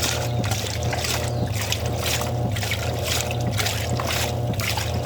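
2003 Wanke traditional 5 kg washing machine running a wash: a steady motor hum with water swishing that swells about once a second.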